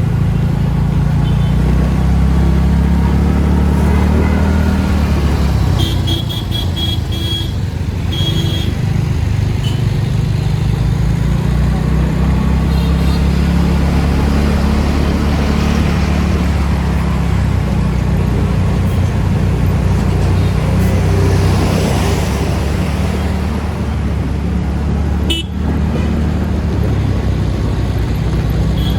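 Steady low rumble of road traffic, with vehicles passing and a vehicle horn tooting in short blasts about six to eight seconds in.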